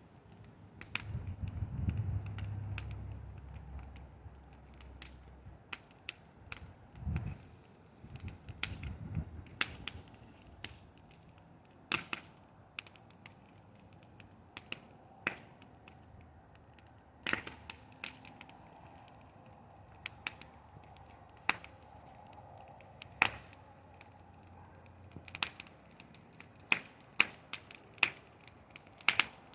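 Bonfire crackling, with sharp irregular pops and snaps of burning wood, and a low rumble about two seconds in.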